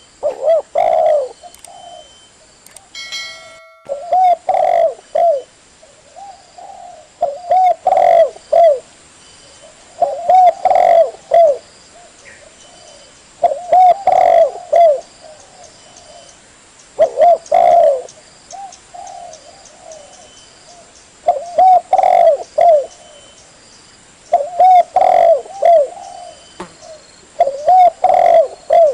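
Spotted dove (tekukur) cooing: a phrase of several coo notes repeated about every three to four seconds.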